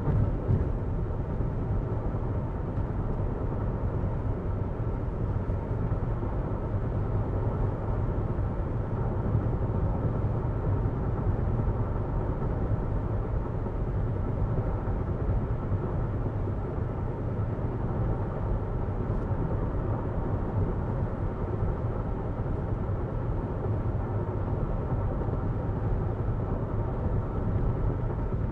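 Steady road and wind noise inside the cabin of a 2022 Jeep Renegade Latitude at driving speed: a constant low tyre rumble with a hiss over it, unchanging throughout.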